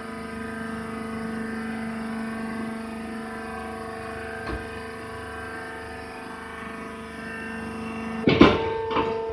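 Hydraulic baler's power unit running with a steady, even hum. About eight seconds in, a couple of loud clunks and a clatter as the machine shifts, and the lower part of the hum drops away.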